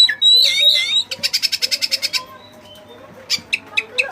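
Oriental magpie-robin (white-breasted kacer) singing: gliding whistled notes, then a rapid run of sharp repeated notes at about ten a second, and a few more sharp notes near the end.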